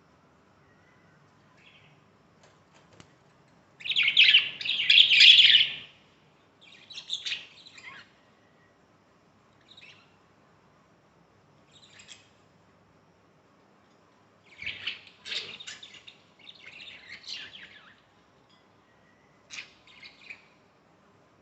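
Budgerigars chirping and chattering in bursts, the loudest about two seconds long, from about four seconds in, followed by shorter, scattered bursts of high chirps.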